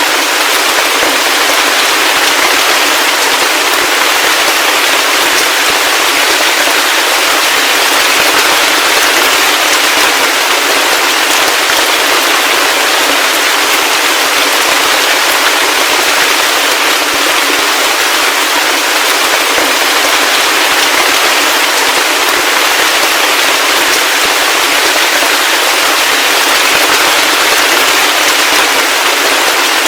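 Heavy rain falling steadily, a dense crackling hiss of many drops with no low rumble underneath.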